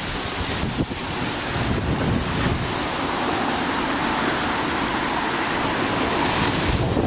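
Strong wind gusting and buffeting the microphone: the gust front ahead of an approaching shelf-cloud thunderstorm.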